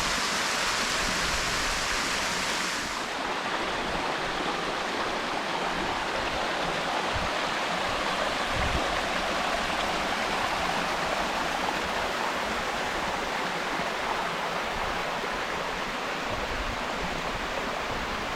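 Steady rushing of water from a small waterfall and creek. About three seconds in, the sound shifts abruptly and loses some of its highest hiss.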